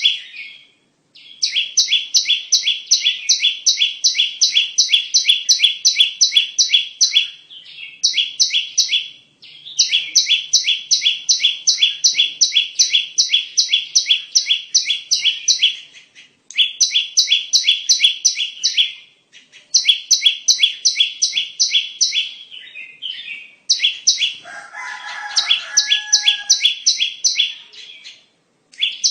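Bar-winged prinia (ciblek) song played as a lure: long runs of fast, evenly repeated high chirps, several a second, broken by brief pauses. A lower, shorter call from another bird joins about three-quarters of the way through.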